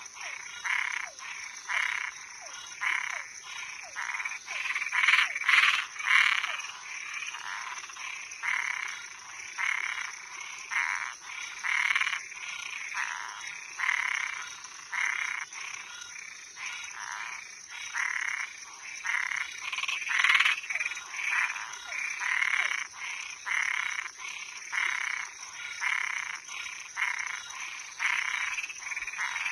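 Frogs and tree frogs calling at night: short croaking calls repeated about one to two times a second, over a steady high-pitched trill.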